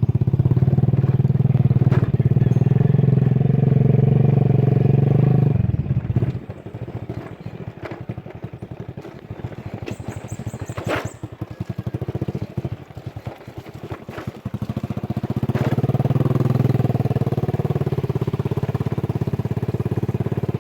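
Motorcycle engine running while under way: loud and steady for the first six seconds, easing off for several seconds, then pulling strongly again after about fifteen seconds. A brief high-pitched pulsing sound comes about ten seconds in.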